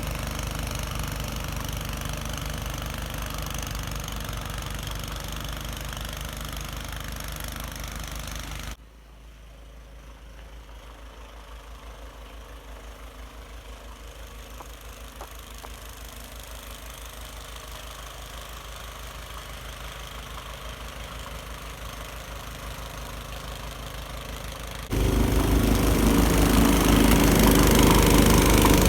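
An engine running steadily with an even pulse, heard in three clips that change abruptly about nine and twenty-five seconds in; it is loudest in the last clip.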